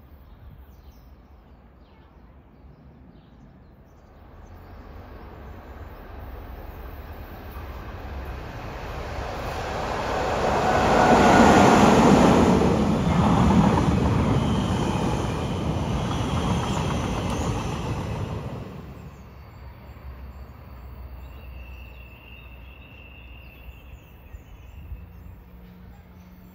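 Double-deck electric passenger train passing close by. Wheel-and-rail noise builds over several seconds, is loudest about halfway through, and drops away quickly after about eighteen seconds as the train moves off.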